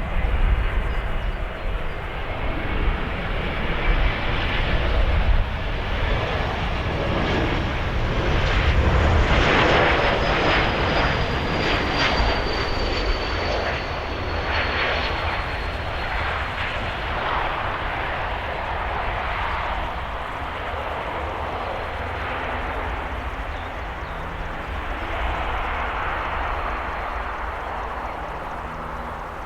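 Jet aircraft on the runway, its engines running loud, with a high whine that falls in pitch as it passes, about a third of the way in. The engine noise then slowly fades.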